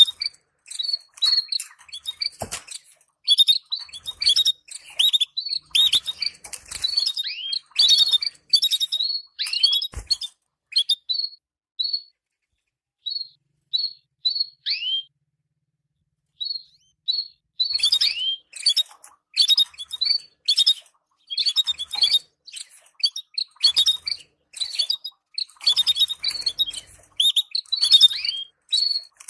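Canaries chirping in quick runs of short, high call notes, some sliding down in pitch, given as stimulating calls for breeding pairs. Near the middle the chirps thin out to a few scattered notes for a couple of seconds, then pick up again.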